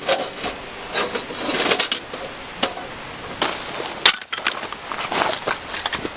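Irregular knocks, clicks and scraping rustles of things being handled, with a sharp click about two and a half seconds in and another about four seconds in.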